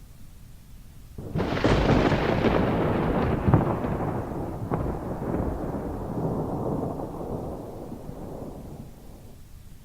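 A thunderclap: a sudden sharp crack about a second in, a few further cracks over the next few seconds, then a long rolling rumble that dies away near the end, over steady rain.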